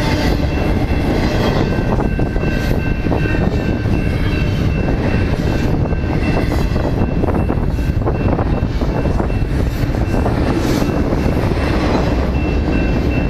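A train rolling past on the rails: a steady, loud rumble and rattle of rail cars, with scattered clicks and a faint steady high whine.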